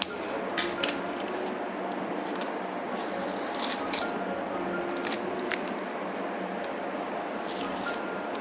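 Short scratchy strokes of writing on watercolor paper as the painting is signed, coming in a few separate bursts over a steady background hum.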